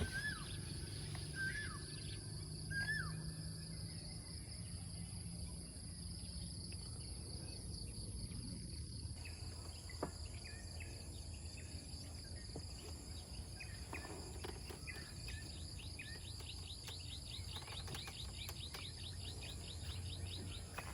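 Outdoor ambience of an insect chorus, crickets or similar, with a steady high-pitched buzz, and birds chirping here and there. A rapid repeated trill joins in during the second half, over a steady low rumble.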